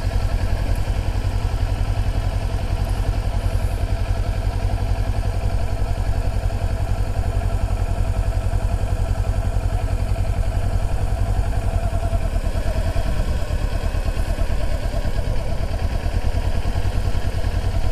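Sport bike engine running steadily at low speed, with a strong low rumble and an even mid-pitched drone.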